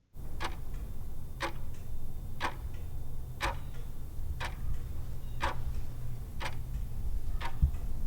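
Clock-style countdown ticking, one tick a second, over a low steady hum, timing the answer pause in a quiz.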